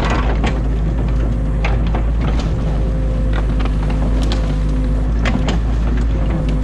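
Excavator's diesel engine running steadily, heard from inside the cab, while branches of a beaver dam crack and snap in the bucket: a loud crack at the start, then scattered sharp cracks throughout.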